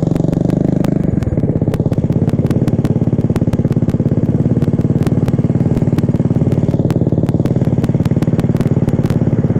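Small single-cylinder mini-bike engine running at a steady speed under way, with a fast, even exhaust pulse that settles about a second in. Frequent sharp clicks sound over it.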